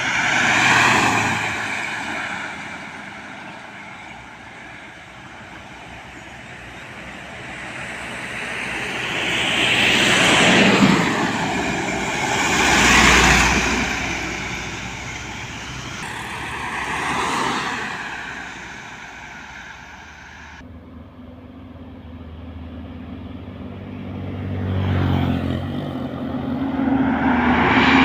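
Road traffic: trucks and other vehicles passing close by one after another, each pass swelling and fading, about five in all, with a louder engine building up near the end.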